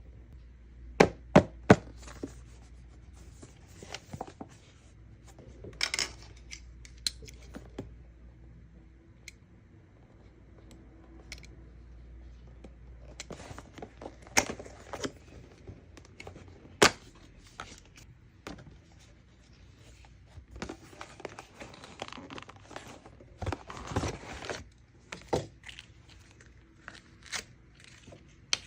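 Merchandise packaging being opened by hand: plastic and paper crinkling and tearing, with sharp clicks and taps, three loud ones in quick succession about a second in.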